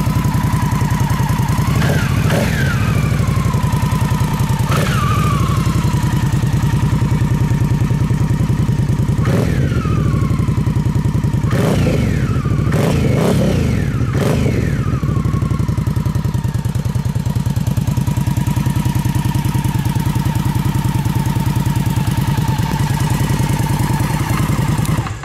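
2015 Indian Scout's V-twin idling through chrome Indian Stage 1 exhaust pipes, a throaty sound, with a series of quick throttle blips whose revs jump and fall back to idle, several close together about halfway through.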